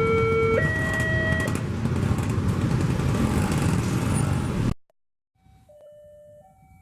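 A train passes at speed with loud steady rumbling, and a two-tone alarm alternates between a low and a high note for the first second and a half. The rumble cuts off suddenly near the end, leaving a faint two-tone alarm still alternating.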